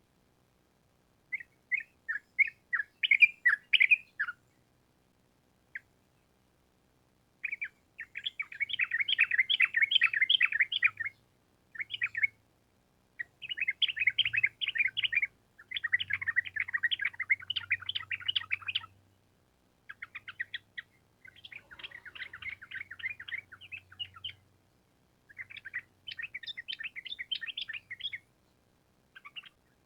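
Yellow-vented bulbul (trucuk) singing long phrases of rapid, bubbly chattering notes. The phrases come in bouts of one to three seconds with short pauses between them.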